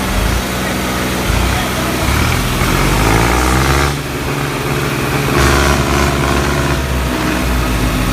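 Diesel engine of soil-loading machinery running, revving up twice for a second or more each time before settling back.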